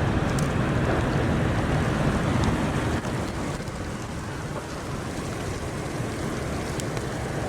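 Steady rushing noise of storm wind and rain, heaviest in the low end, easing slightly about three seconds in.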